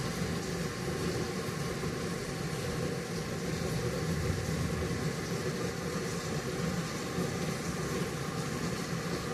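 Steady rain falling on foliage, an even wash of pattering with a low rumble underneath.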